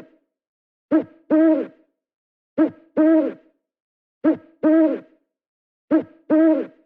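Hooting bird call in pairs, a short note followed by a longer one, repeated at an even pace about every second and a half to two seconds, four times.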